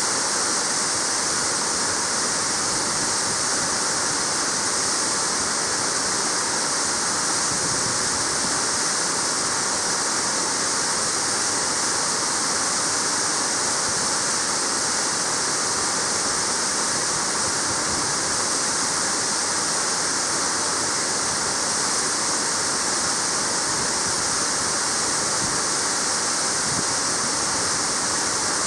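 Waterfall: water falling and splashing onto rock in a steady, unbroken rush, bright and hissy.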